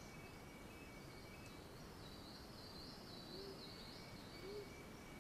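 Faint cloud-forest ambience. A thin steady high insect-like tone runs throughout, and a wavering high buzzing trill sounds through the middle. Two soft, short, low hooting calls come near the end.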